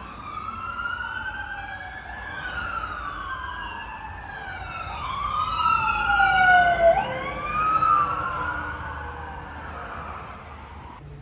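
Emergency vehicle sirens wailing, at least two overlapping, their pitch sweeping up and down. They grow louder toward the middle and fade away near the end.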